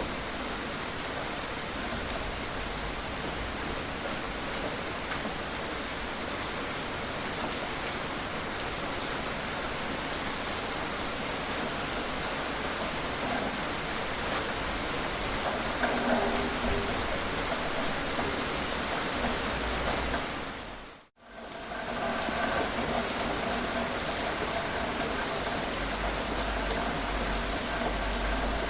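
Steady gentle rain, a dense even hiss dotted with individual drop ticks. About three-quarters of the way through it briefly fades to silence and comes straight back.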